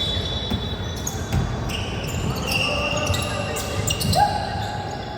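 Basketball game in a gym: the ball bouncing on the court floor, with shoes squeaking sharply on the floor several times and voices in the hall.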